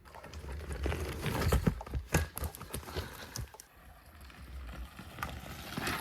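Small chainless bike rolling fast over a rough dirt track, its frame and loose parts rattling and knocking irregularly over the bumps, with a low rumble of wind.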